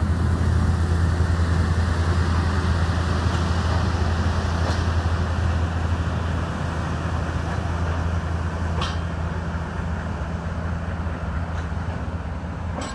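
Diesel-hauled passenger train pulling slowly out: coaches rolling past over a steady low diesel drone, easing off slightly as the train draws away, with an odd sharp wheel click near the end.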